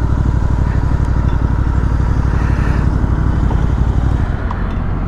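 Royal Enfield Continental GT 650's parallel-twin engine running with a steady low exhaust pulse, the note dropping lower about four seconds in.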